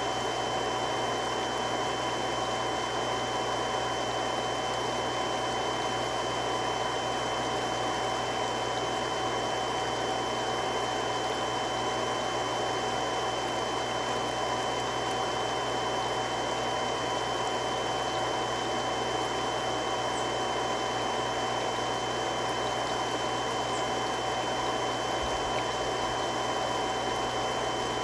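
Three-stage irrigation water pump running steadily: an even rushing noise with a few steady whining tones over it.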